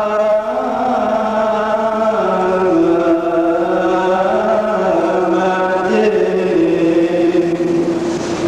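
A Coptic priest's voice chanting a long melisma of the liturgy in Arabic. He holds each note for a second or two, then steps up or down to the next, without a break.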